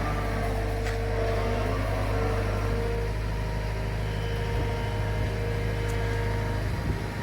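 New Holland C362 skid steer's diesel engine running steadily, a deep low hum with a steady whine above it; the low hum falls away just before the end.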